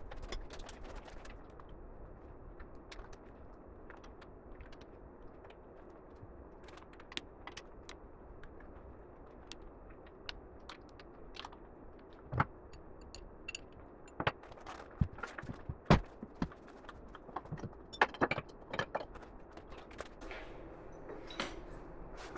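Scattered sharp metallic clicks and knocks of tools and metal parts being handled, sparse at first and coming thicker and louder past the middle.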